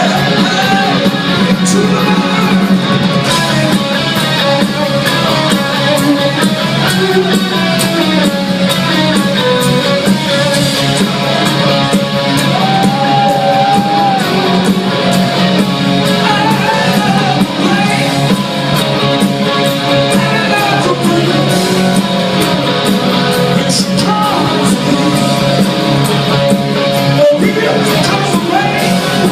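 Live rock band playing loud, steady, electric-guitar-led rock, with some singing.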